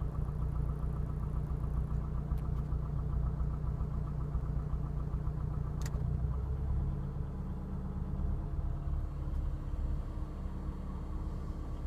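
Car engine idling with a fast, rapid knocking noise, which the owner suspects is piston slap and finds the A/C switching on or off seems to bring on. About six seconds in there is a sharp click, and the engine's note shifts just after it.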